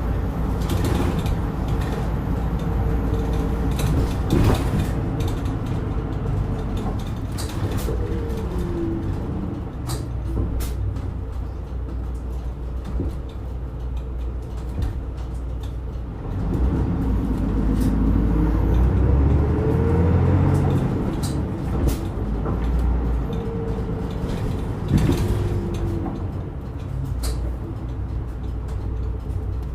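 Running sound of a Nihon Kotsu route bus heard from inside the cabin: a steady engine and road rumble. The engine note climbs as the bus accelerates around the middle, then drops as it eases off, with a couple of sharp knocks.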